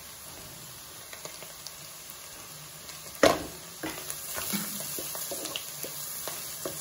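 Chopped garlic sizzling in hot oil in a pot. About three seconds in, a wooden spatula knocks against the pot once, then keeps scraping and stirring through the sizzling.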